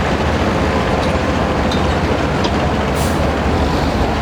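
Loud pulling-tractor engine running steadily.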